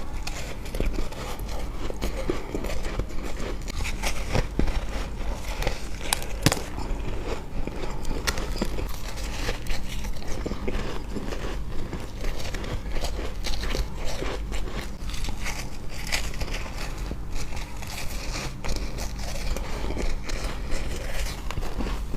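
Ice being bitten and chewed close to the microphone: a steady run of irregular crunches as the frozen pieces break between the teeth, with a few sharper cracks standing out.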